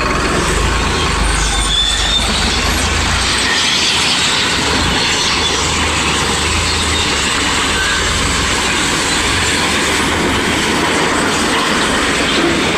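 Powertrac Euro tractor running with a loud, steady rattling and hissing noise over it. A low rumble underneath fades about three and a half seconds in.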